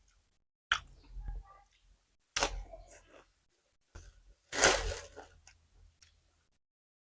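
Close-miked eating: crunchy bites and chewing of food, in four short bursts with silence between, the loudest about two-thirds of the way in.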